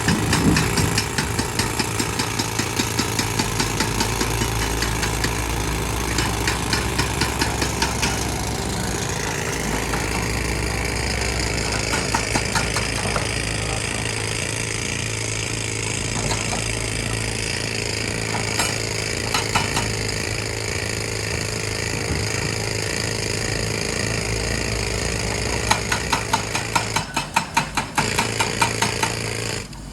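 Heavy diesel machinery running steadily, with spells of rapid rattling knocks and a rising whine about eight seconds in.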